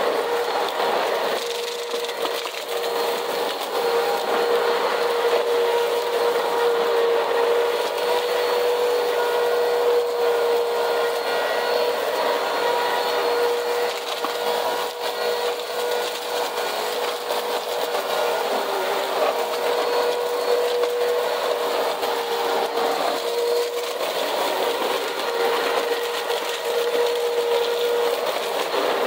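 Vacuum cleaner running with a steady whine while sucking up dirt and grit spread on a cement floor, the debris crackling and rattling through it.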